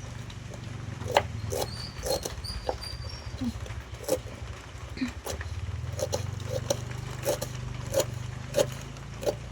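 A series of short, sharp knocks at an irregular pace, about one or two a second and coming more often in the second half, over a steady low hum.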